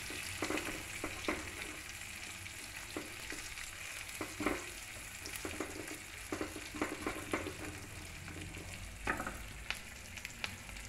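Onion pieces, green chillies and dry red chillies sizzling in tempering oil in a small pan, stirred with a wooden spatula that scrapes and knocks against the pan every so often.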